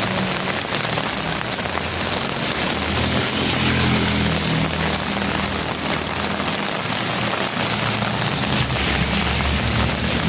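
Heavy rain falling steadily, with a low engine hum underneath that fades in the middle and grows louder again near the end.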